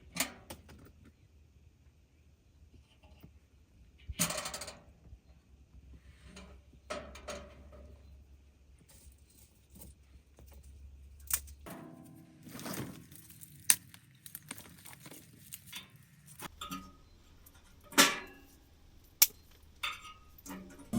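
Camping gear being handled: scattered small clicks, clinks and knocks of hard objects, with a brief rustle or scrape about four seconds in and a few sharper knocks in the second half.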